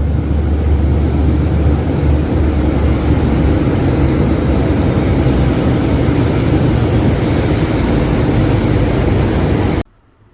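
Train running at speed: a steady, loud rush of noise with a deep rumble that eases off over the first few seconds, cutting off suddenly near the end.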